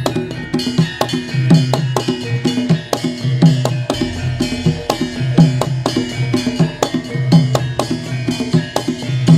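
Instrumental accompaniment for a Javanese lengger dance: a steady, driving drum and percussion rhythm with sharp clacking strikes over ringing pitched tones, with no singing.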